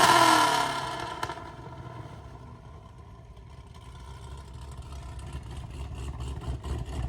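Car engine sound: a loud rev or pass with falling pitch fades away in the first second or two, then a low engine rumble slowly builds.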